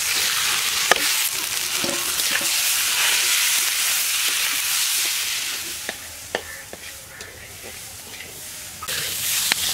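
Washed moong dal sizzling as it is tipped into hot oil in a metal wok and stirred with a metal spatula. The sizzle drops after about six seconds, leaving scrapes and clicks of the spatula against the wok.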